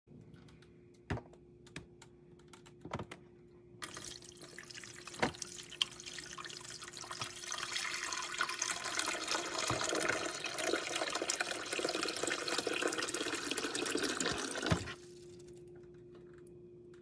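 A few clicks and knocks, then water running from a tap into a container for about eleven seconds, growing louder as it fills and stopping abruptly. A steady low hum runs underneath.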